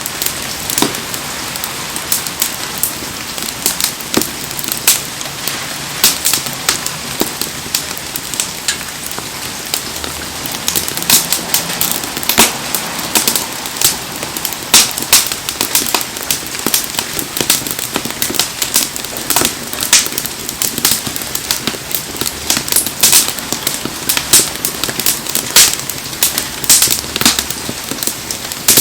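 Wood bonfire crackling with frequent, irregular sharp pops, over the steady hiss of heavy rain.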